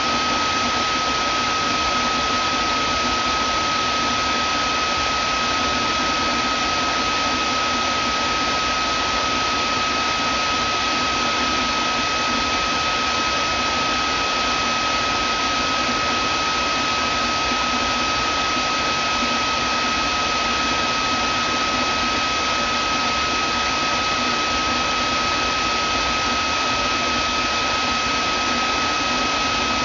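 Vacuum cleaner motor running steadily: an even rushing of air with a high whine held at one pitch.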